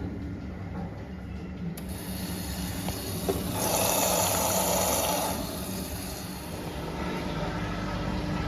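Washing machine running on a cotton 40 °C cycle: a steady low hum, then about two seconds in water starts rushing in as it fills, loudest for a couple of seconds in the middle.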